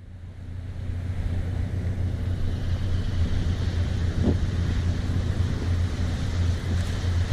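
A boat's inboard engine running with a steady low drone, growing louder over the first two seconds, with wind buffeting the microphone.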